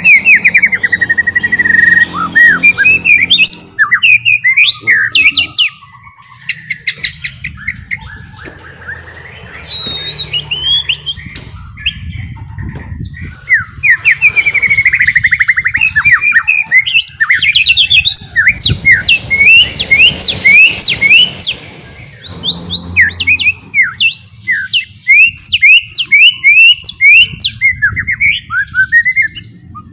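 White-rumped shama (murai batu) singing in rapid 'ngeriwik' runs: dense strings of fast, sweeping chirps and trills, loud, broken by short pauses.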